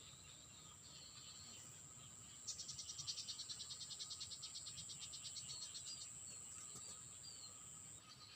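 Steady high-pitched insect drone. A rapid trill of about ten pulses a second starts about two and a half seconds in and fades out a few seconds later, with a few short chirps from small birds or insects.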